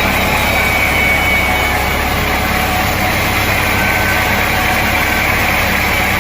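Sawmill machinery running steadily: a loud, even mechanical drone with a faint steady high whine and no breaks.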